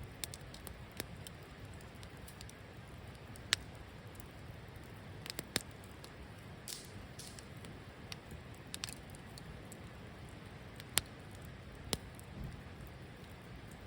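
Wood campfire burning, with scattered sharp crackles and pops over a low steady hiss. A few louder pops stand out, one about three and a half seconds in and two more near the end.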